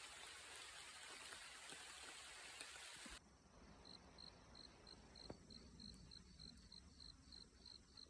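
A faint steady hiss cuts off abruptly about three seconds in. After it, a faint insect chirps in an even, high-pitched pulse, about three chirps a second.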